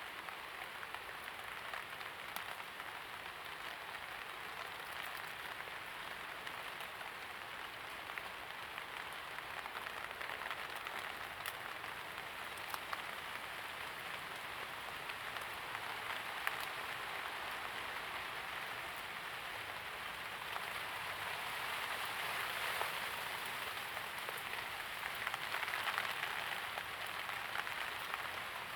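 Steady rain falling, an even hiss with scattered single drop ticks, growing a little heavier in the last third.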